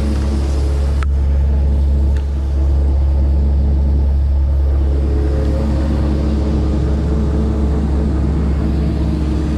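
John Deere 8820 combine running steadily while harvesting wheat, its engine and machinery making a loud, even drone with a brief dip about two seconds in.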